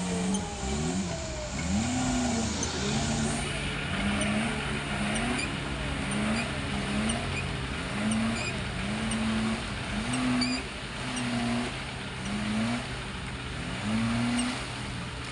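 Off-road vehicle engine revved up and down over and over, more than a dozen quick throttle blips about a second apart. A second engine runs at a steady pitch underneath from a few seconds in.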